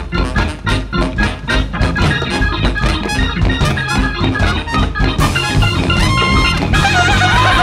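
Live jazz band playing: a driving beat of about four strokes a second under organ-like keyboard and guitar, the sound thickening about five seconds in as a wavering melody line comes in near the end.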